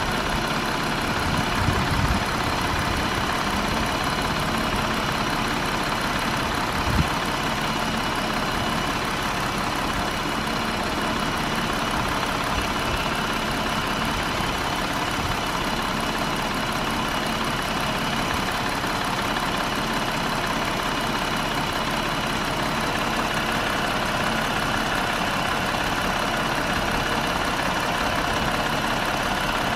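2020 Jeep Wrangler engine running at idle with a steady, loud rattling drone that sounds like a jackhammer. The owner treats the noise as a fault in the new vehicle. There is a brief louder knock about seven seconds in.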